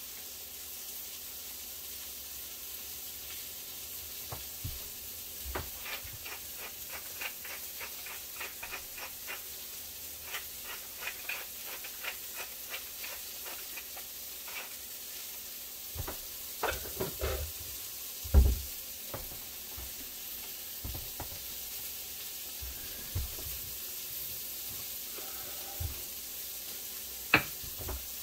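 Arborio rice and cremini mushrooms sizzling in an Instant Pot's inner pot on sauté, browning before the broth goes in. A utensil stirs against the pot in quick runs of ticks, then there are a few knocks, the loudest about two-thirds of the way through.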